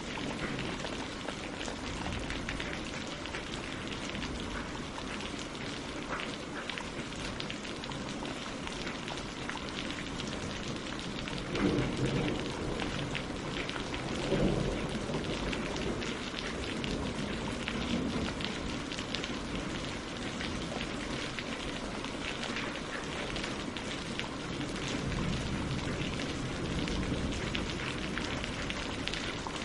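Steady rain falling on water and leaves, a dense even patter of drops. Two brief, louder low thumps come a little before the middle.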